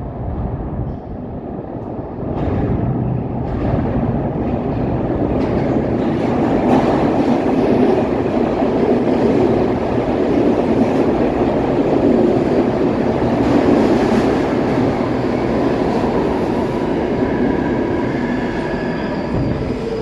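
Subway train running through an underground station: a loud, steady rumble of wheels on rails that swells about two seconds in and holds, with a faint high tone near the end.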